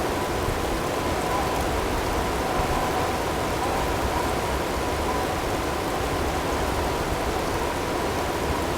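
Snowstorm ambience: a steady hiss of wind and driving snow, with two faint steady tones mixed in underneath.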